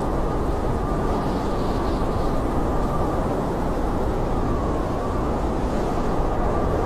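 Blizzard wind blowing steadily in a low rushing roar, with a faint high whistle that wavers slightly in pitch.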